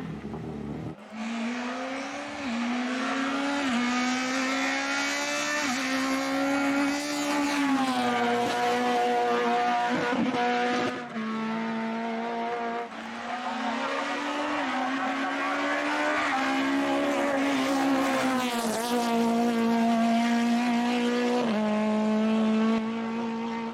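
Race car engine under hard acceleration on a hillclimb. Its note climbs through each gear and drops back at every gear change, several times in a row.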